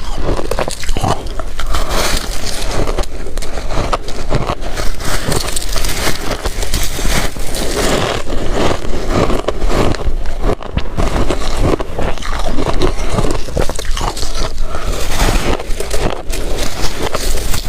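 A person biting and chewing water-dipped shaved ice: a dense, unbroken run of crisp crunches and crackles.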